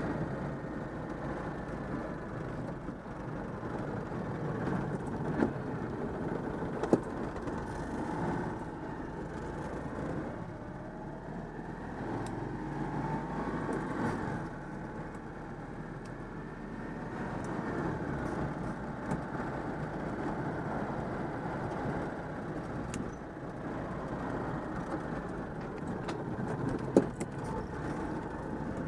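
Citroën 2CV's air-cooled flat-twin engine running as the car is driven, its pitch rising and falling with the revs, with a few sharp clicks over the steady drive noise.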